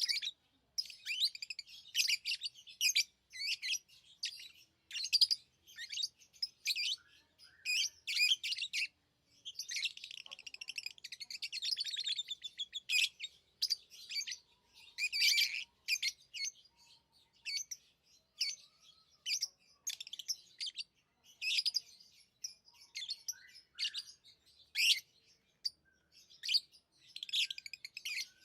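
Pet lovebirds chirping: a busy run of short, high calls, with a longer stretch of rapid chatter about ten seconds in.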